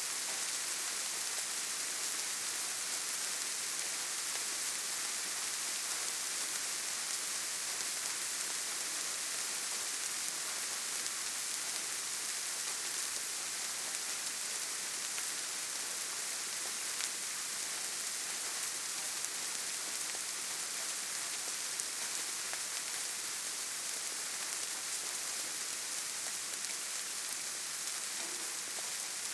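Steady rainfall: an even hiss with a few louder individual drops.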